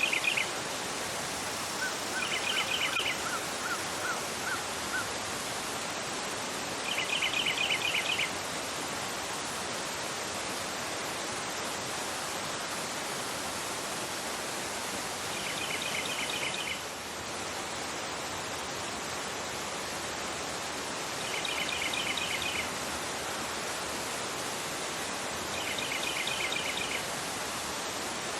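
River flowing fast over a rocky bed, a steady rush of water. Over it a bird sings short, rapid trills every few seconds, and a second bird gives a slower, lower series of notes a few seconds in.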